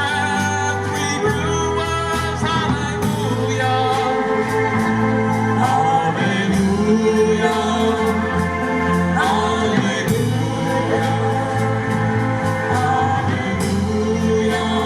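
Live band playing a song, with singing over a bass line and drums.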